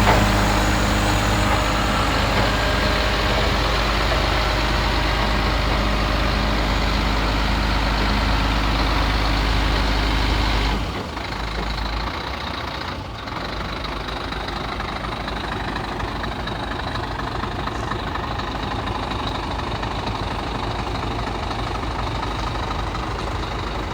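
Scania P124 truck's straight-six diesel engine idling steadily. About eleven seconds in the sound drops in level and its low hum changes, then runs on more quietly and evenly.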